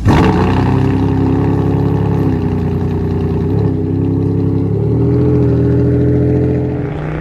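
A car engine held at raised revs, its pitch dipping and climbing slightly a few times. It starts abruptly and fades out near the end.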